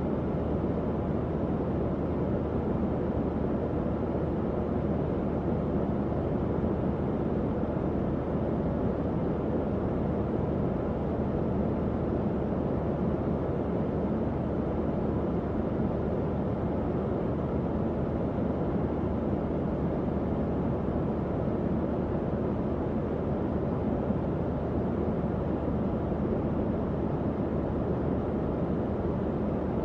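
Tower fan running steadily: an even, low whooshing rush of moving air with a faint low hum underneath and no change throughout.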